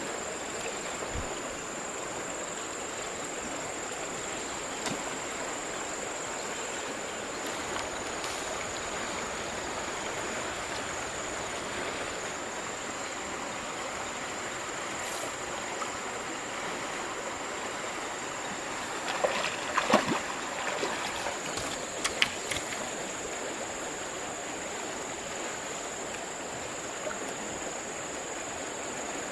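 River water flowing steadily, with a thin steady high tone over it. A few short splashes come about two-thirds of the way through.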